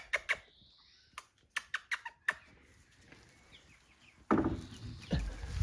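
Young chicks in a box: a few faint short peeps among a run of sharp taps and scratches, then louder rustling and handling noise from about four seconds in.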